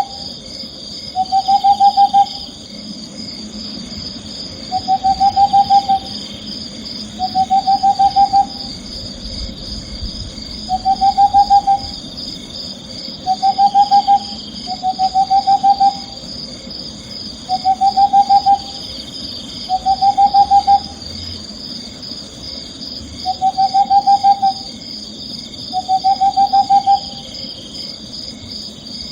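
An owl calling repeatedly, each call a short quavering hoot about a second long, coming every two to three seconds. A steady high-pitched drone runs beneath it.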